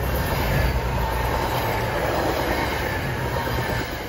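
NJ Transit Arrow III electric multiple-unit commuter train passing close by: a steady rumble of wheels on the rails, with a faint high whine above it.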